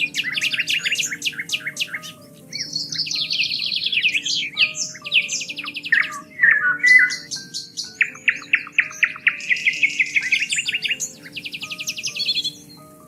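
Songbirds singing in rapid trills and fast runs of chirps, one phrase after another with hardly a pause.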